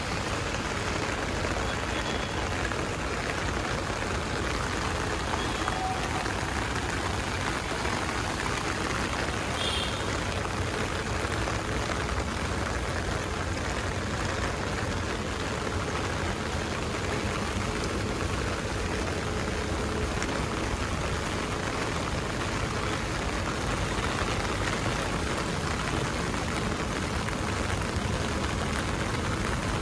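Steady monsoon rain falling, an even hiss of rain with a low rumble underneath, and a few faint short chirps or squeaks now and then.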